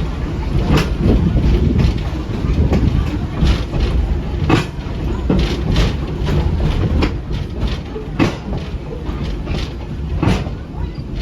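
Ride inside a passenger train car behind a steam locomotive: a steady low rumble of the car rolling, with irregularly spaced sharp clacks as the wheels cross rail joints.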